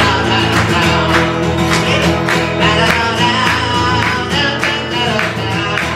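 Acoustic guitar strummed in a steady rhythm, accompanying a song played live.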